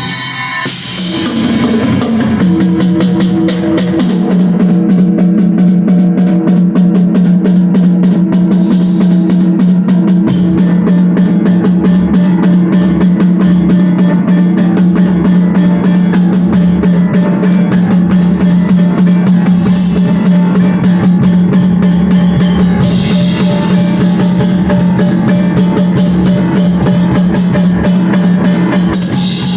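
Rock band playing live and loud: a drum kit with a pounding bass drum under guitars, and a sustained low bass note.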